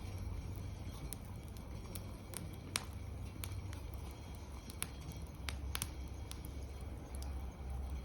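Wood fire crackling in a fire pit, with irregular sharp pops over a low steady rumble.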